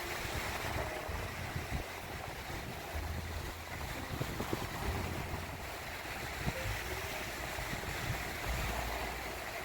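Gentle surf washing onto a sandy beach, a steady hiss, with wind buffeting the microphone in low, uneven rumbles.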